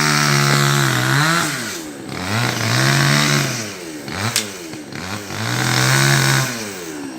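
Chainsaw engine revved up to full throttle three times, each time holding high for a second or so and then dropping back toward idle, with a sharp click about four seconds in.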